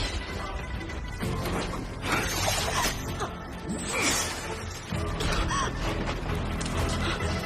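Dramatic sound effects of mechanical clicking and creaking, with a series of sudden noisy swells, over background music.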